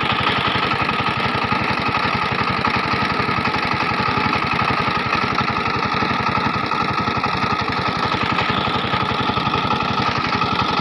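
SIFANG power tiller's single-cylinder diesel engine running steadily, with an even, rapid beat of firing strokes.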